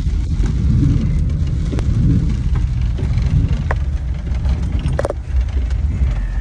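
Cabin noise of a Cadillac Escalade on the move: a steady low road and engine rumble, with a couple of faint clicks.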